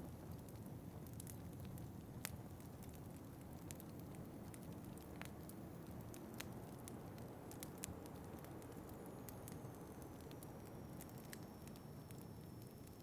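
Wood fire crackling, with scattered sharp pops and snaps, over a steady low wind rumble.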